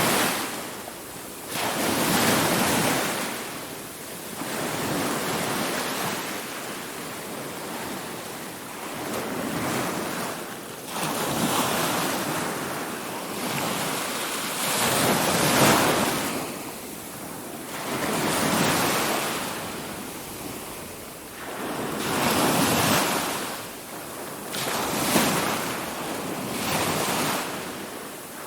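Ocean waves breaking and washing on a shore, the surf swelling and fading every two to three seconds. Wind noise on the microphone runs under it.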